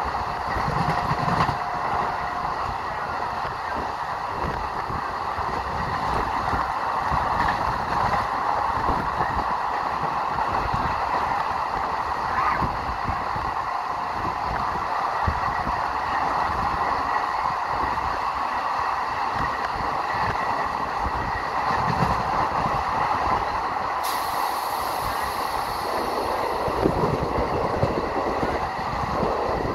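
A train running along the rails with a steady rumble of wheels and carriages and scattered knocks. A high hiss starts suddenly about three-quarters of the way through and slowly fades.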